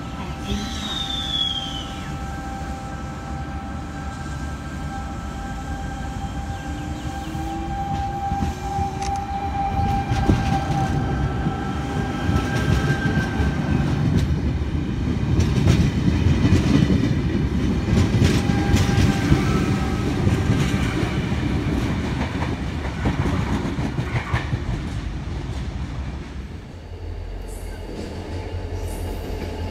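A stainless-steel double-deck Intercity electric train (V-set) pulls out and accelerates past: its traction motors whine, one tone rising in pitch, and its wheels rumble and clack over the rails, loudest through the middle. A short falling squeal comes about a second in, and near the end the low steady hum of approaching freight diesel locomotives takes over.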